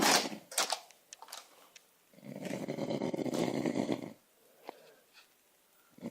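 A man snoring heavily: one rough, rattling snore about two seconds long in the middle, and the next one beginning right at the end.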